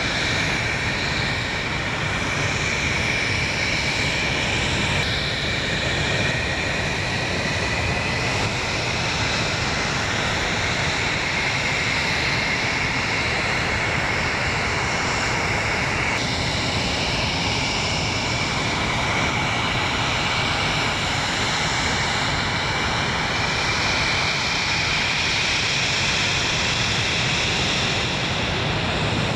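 English Electric Lightning F6 jet fighter's twin Rolls-Royce Avon turbojets running steadily: a high whine over a broad rush, the whine drifting slowly in pitch.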